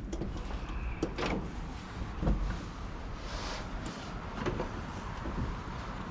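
Wind buffeting the microphone, with a few scattered clicks and knocks as a van's power cable is handled and plugged in.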